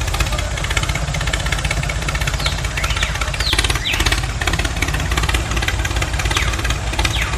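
Small diesel engine running steadily at idle with a fast, even beat. A few short high falling chirps sound over it.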